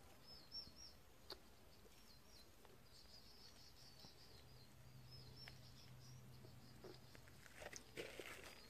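Near silence with faint bird chirping: short, high chirps repeated through most of it, and a few soft clicks.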